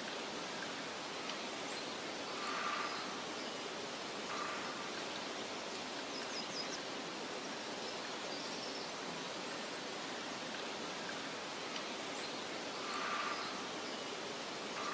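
Steady meadow ambience of soft wind rustling through grass, with faint, brief high bird chirps here and there. A short, slightly louder sound comes twice, about three seconds and about thirteen seconds in.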